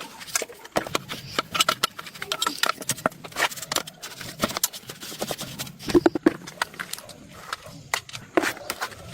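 Hand tools clicking and knocking on metal parts in a rapid, irregular series, with the loudest knocks about six seconds in.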